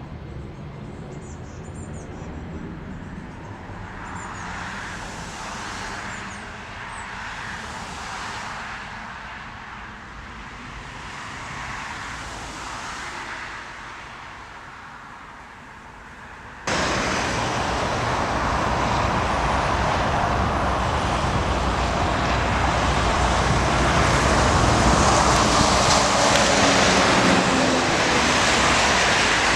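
Jet airliner engine noise heard across an airfield. At first it is quieter, with soft swells every couple of seconds. It cuts suddenly about 17 s in to a much louder, steady jet engine noise that builds to its loudest near the end.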